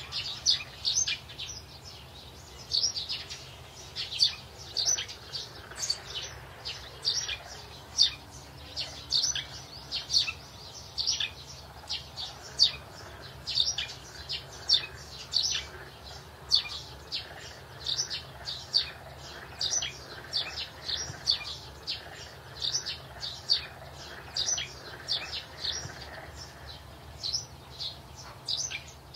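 Small birds chirping: short high chirps, each dropping in pitch, in quick runs. They go on throughout, over a faint steady low hum.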